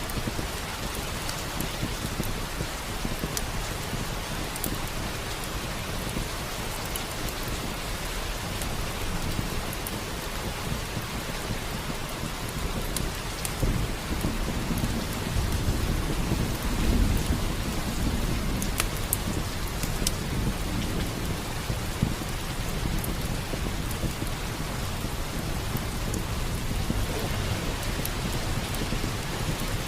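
Steady heavy rain, with scattered sharp crackles from a wood fire. A low roll of thunder swells about halfway through, peaks and dies away a few seconds later.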